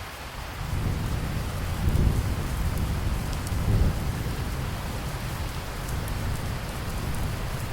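Steady rain falling, with a low rolling thunder rumble that builds about a second in, swells twice (near two and four seconds in) and slowly dies away under the rain.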